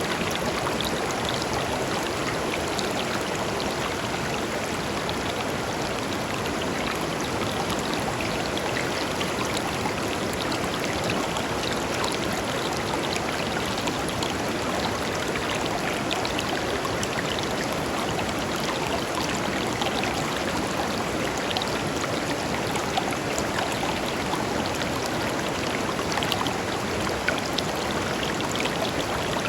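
River water flowing and burbling steadily over stones, an even rushing with small splashes throughout.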